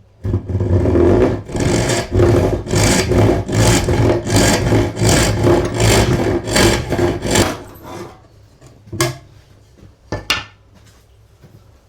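Rhythmic rasping strokes, like a rasp or sandpaper worked back and forth by hand, about two a second, which stop after about seven seconds; two sharp knocks follow.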